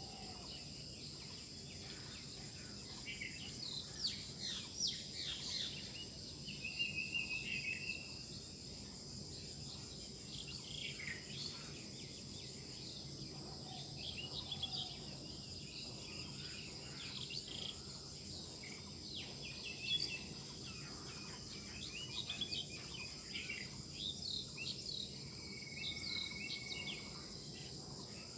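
Songbirds chirping and singing at dawn, with short scattered calls and a few held whistled notes, over a steady high-pitched drone of insects.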